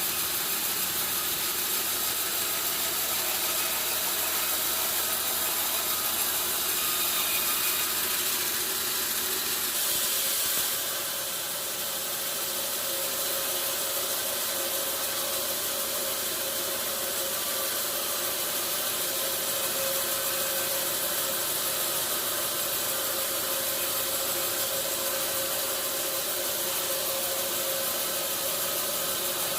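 Sawmill machinery running steadily with a continuous mechanical clatter and hiss. About ten seconds in, the high hiss drops and a steady hum sets in.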